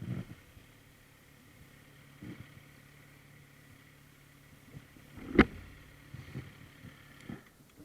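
Kawasaki Z900RS Cafe's inline-four engine idling quietly, a low steady hum, with several sharp knocks and bumps close to the microphone, the loudest about five seconds in.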